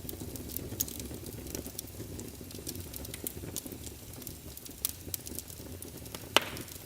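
Wood logs burning in a fireplace: a steady low rustle of flame with scattered crackles and pops, one sharper pop about six and a half seconds in.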